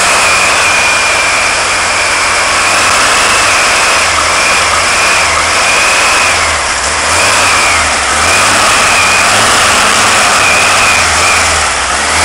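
Freshly built 1776 cc air-cooled VW flat-four with a mild cam, EMPI carburettor and headers, running loudly and steadily on one of its first runs. A high whine wavers slightly over it, and the sound dips briefly about seven seconds in and again near the end.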